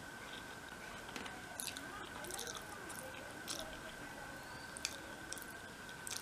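Soft chewing and lip smacks from a mouthful of rice and fish, with scattered faint wet clicks of fingers mixing rice on a glass plate. A faint steady high whine runs underneath.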